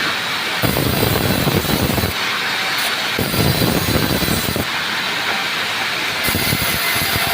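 Band saw running and cutting small pieces of rubberwood, a steady machine noise whose deeper part swells and drops back every second or two as pieces go through the blade.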